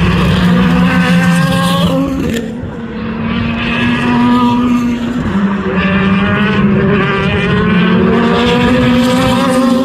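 Race car engines at full throttle, pitch climbing through the gears with upshifts about two seconds in and again about five seconds in.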